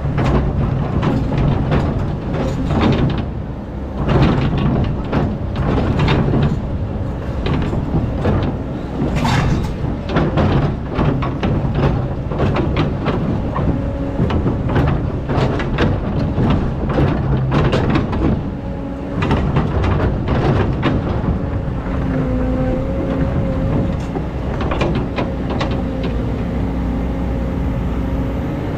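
Excavator's diesel engine running under load, with frequent knocking and scraping as the bucket digs into sand and gravel. A steady whine joins in during the last several seconds.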